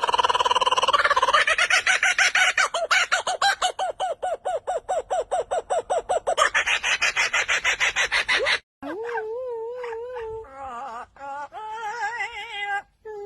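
Bird calls: a loud, fast run of repeated clucking notes, about seven a second, for most of the first eight seconds. After a sudden break comes a wavering, warbling pitched call with short gaps.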